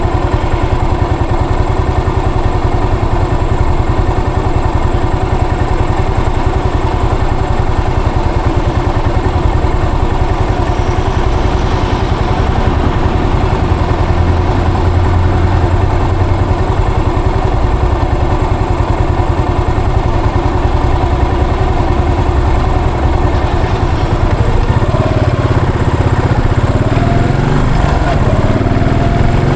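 Yamaha SR400's air-cooled single-cylinder four-stroke engine running under way, a steady low pulsing exhaust note. Near the end the pitch rises as the engine revs up.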